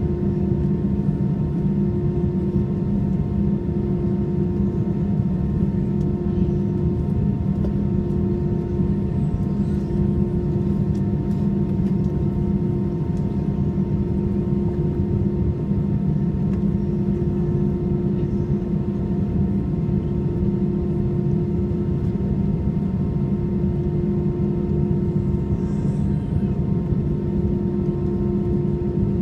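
Airbus A320's twin jet engines at takeoff power, heard from inside the passenger cabin: a steady roar with steady hums and a whine running through it.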